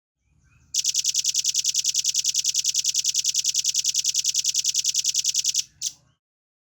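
Velvet-fronted nuthatch singing a long, fast trill of high, sharp notes, about ten a second, for nearly five seconds, then one short note after a brief pause.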